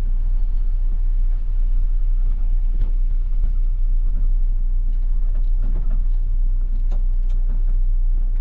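Volvo coach cruising on the road, heard from the driver's cabin: a steady low engine and road rumble, with a few faint rattles and clicks from the cabin.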